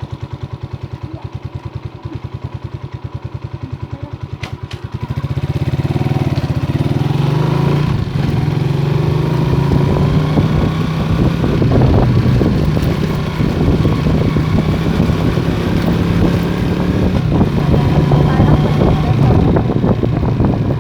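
Motorstar Star X 125 motorcycle's 125 cc engine idling with an even, rapid putter. About five seconds in it speeds up and the bike pulls away, the engine running steadily with rougher road and wind noise over it.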